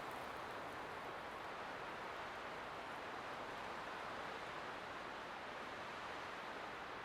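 Light wind blowing steadily, an even rushing noise with no gusts or distinct events.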